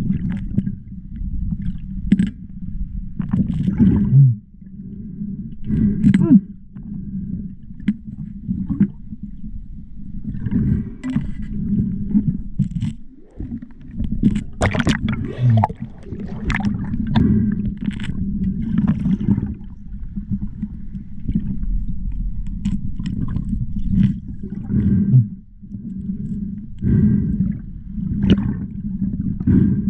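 Muffled, boomy water noise with a steady low hum, broken every second or two by sharper knocks and sloshes.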